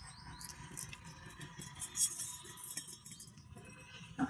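Light clinks and scrapes of small metal parts on an inverter battery being handled, with a sharper knock near the end.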